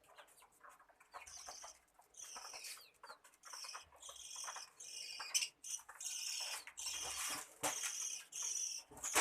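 Small pet birds chirping in a run of short, high calls one after another, with a few sharp clicks among them.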